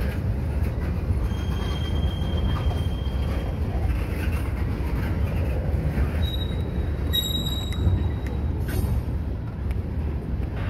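Freight train of loaded tank cars rolling past close by: a steady rumble of steel wheels on rail, with a thin, high wheel squeal twice, about a second in and again around six seconds in.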